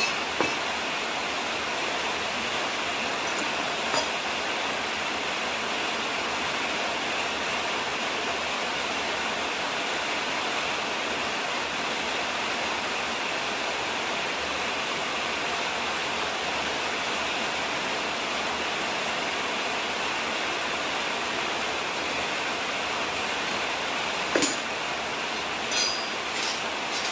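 Steady hiss with a few short, light clinks of metal parts being handled: one near the start, one a few seconds in, and a cluster near the end that is the loudest.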